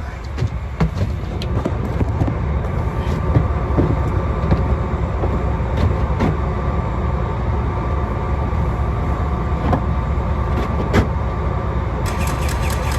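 A vehicle engine running steadily with a low rumble, with scattered light clicks and knocks over it, two a little louder near the middle and toward the end.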